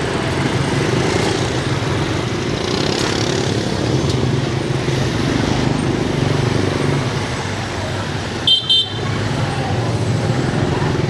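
City street traffic with engines running steadily, and a vehicle horn giving a short, high double beep about eight and a half seconds in.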